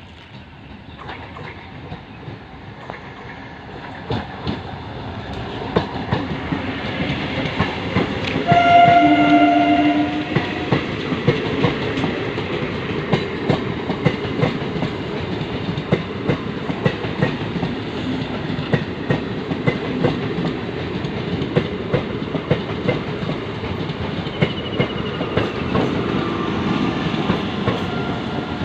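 Northern Railway electric multiple unit train approaching and passing close by, its sound growing louder over the first several seconds. A train horn sounds once, about a second and a half long, some eight or nine seconds in. The coaches then rumble past steadily, with the wheels clicking over the rail joints.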